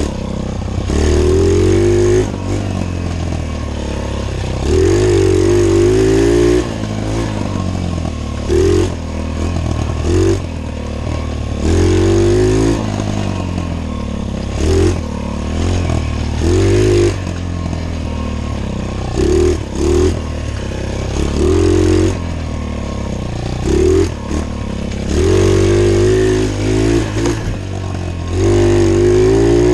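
Small pit bike engine running as the bike is ridden, with the throttle opened in repeated bursts of about half a second to two seconds. The pitch rises and falls with each burst, and the engine drops back to lower, steady running in between.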